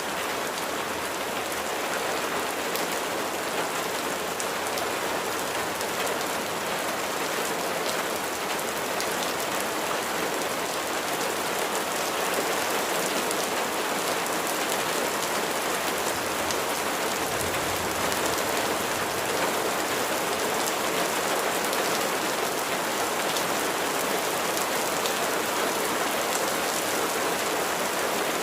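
Steady rain falling on a surface: a dense, even hiss of drops with fine pattering ticks throughout.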